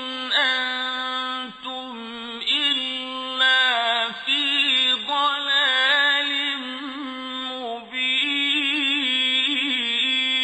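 A male reciter chanting the Quran in the melodic mujawwad style: one voice holding long, ornamented notes that waver up and down in pitch, with a few brief breaks between phrases.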